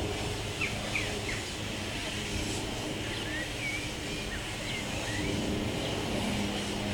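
Several short bird chirps, quick rising and falling notes, over a steady low mechanical hum.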